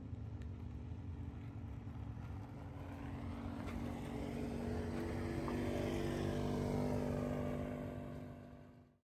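Drag race car's engine rumbling at low speed as the car rolls past, growing louder as it comes closest about six or seven seconds in. The sound cuts off suddenly near the end.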